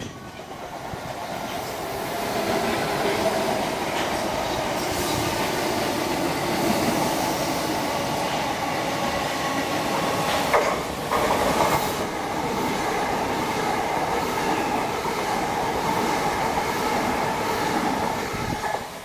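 Electric multiple-unit trains running through on the nearby tracks: a steady rolling of wheels on rail that builds over the first couple of seconds and holds, with a faint whine over it and a few sharp clicks a little past the middle.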